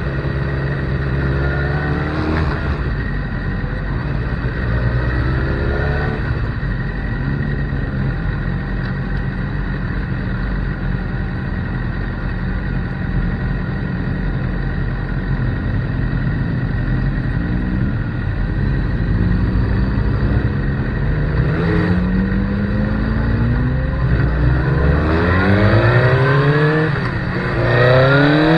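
Motorcycle engine heard from onboard, running at fairly steady revs with a couple of brief rises. In the last third it revs up again and again in rising sweeps as it accelerates up through the gears.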